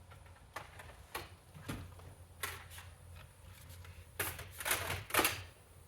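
Light plastic clicks and knocks from a Dyson vacuum being handled and checked over, then a few louder scraping, rustling handling noises about four to five seconds in.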